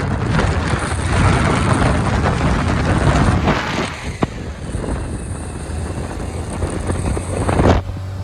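Open-top 1965 MGB under way: wind rushing over the microphone, with road noise and the B-series four-cylinder engine's steady low hum through its new muffler underneath. Near the end the wind noise drops off sharply and the engine hum stands out.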